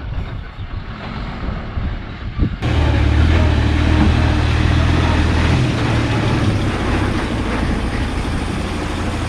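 Heavy coal-hauling truck's diesel engine running close by. A steady low drone comes in suddenly about a third of the way in and eases slightly toward the end.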